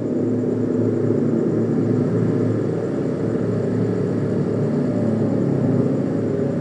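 A loud, steady, low rumble.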